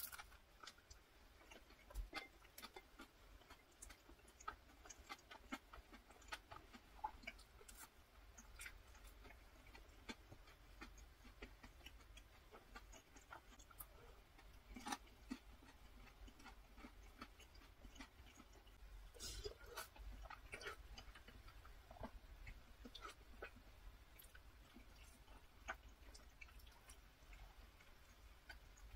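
Quiet close-up chewing and mouth sounds, soft wet clicks and smacks, as bread and cream pasta are eaten, with a denser run of clicks about two-thirds of the way in.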